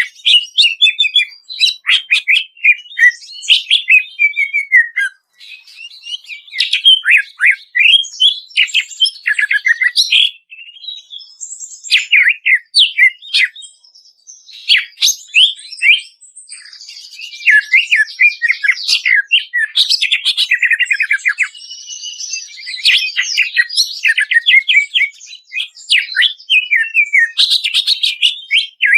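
Cucak ijo (greater green leafbird) singing loudly and continuously: fast runs of sharp, quickly falling whistled notes and chatter in rapid phrases with brief pauses between them. This is a masteran recording played to stir caged cucak ijo into singing.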